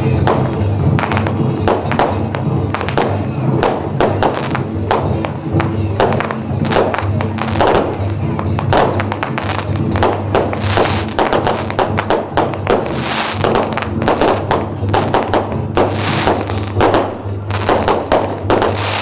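Strings of firecrackers crackling densely over processional music, with a short falling high whistle repeated about twice a second through the first half.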